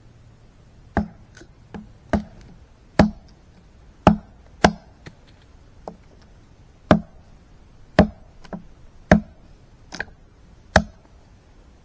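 A series of about a dozen sharp knocks or chopping strikes, irregularly spaced, roughly one a second, each a single short impact.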